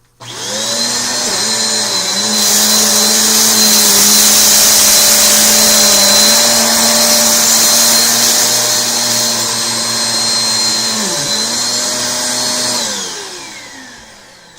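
Eureka AirSpeed One Turbo upright vacuum cleaner switched on with its brush roll spinning, the motor running steadily with a high whine and a loud rush of air. It is switched off near the end, and the motor winds down over a couple of seconds.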